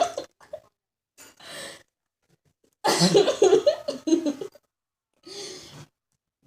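A girl coughing in several bursts while eating, the longest and loudest fit about three seconds in.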